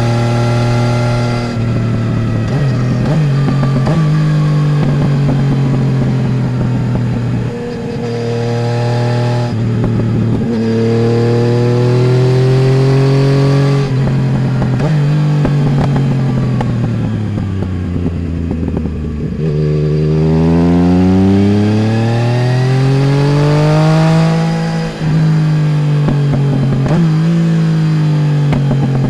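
Yamaha Tracer 900 GT's three-cylinder engine through a full Roads Italia aftermarket exhaust, ridden on the road. The revs hold, then break briefly at several gear changes. Past the middle they fall slowly to a low point, then climb steadily again under acceleration, with another short break at a shift near the end.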